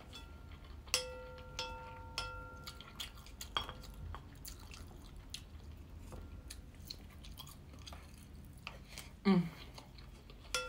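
Close-up eating sounds: chewing and small mouth clicks throughout. About a second in, wooden chopsticks and a wooden spoon knock against a ceramic plate three times, and each knock sets the plate ringing briefly.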